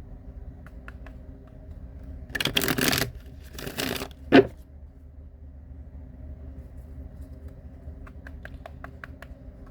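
A deck of tarot cards shuffled by hand, with two short bursts of card noise about two and a half and three and a half seconds in. A sharp snap follows a little after four seconds, and light card clicks come near the end.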